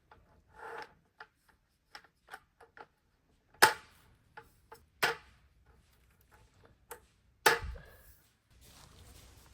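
Dry firewood being snapped and knocked about: three loud, sharp cracks a second or more apart among lighter clicks, the last with a dull thud.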